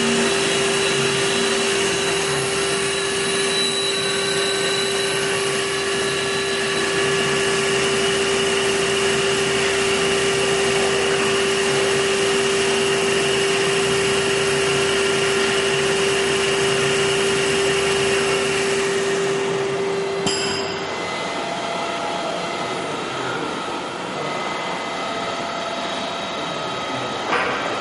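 Computer-controlled wood lathe running with a steady hum over a hiss of machine noise. About 20 seconds in the hum stops with a click and a quieter, steady machine noise carries on, with another click near the end.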